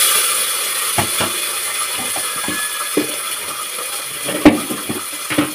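Green peas sizzling in hot oil in a metal pan, the sizzle slowly fading, with several sharp clinks of a spoon against the pan, the loudest about four and a half seconds in.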